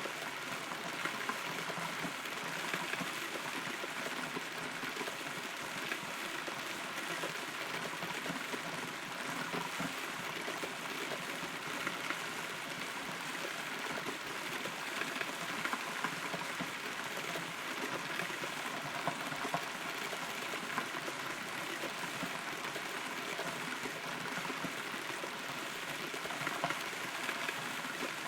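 Steady rain heard from inside a hollow rotten tree trunk, with many small drops tapping close by.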